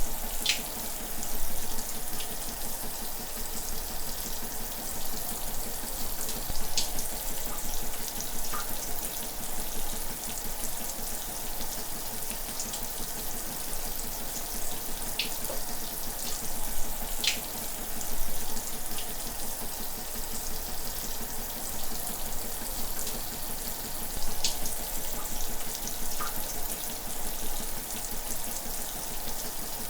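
A shower running steadily, water spraying and splashing in an even hiss, with occasional faint drip-like ticks.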